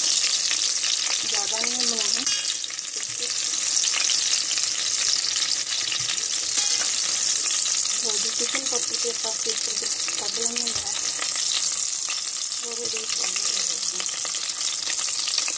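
Chicken tikki patties frying in shallow oil in a stainless steel pan, a steady sizzle full of fine crackles, with a metal spoon working in the pan at times.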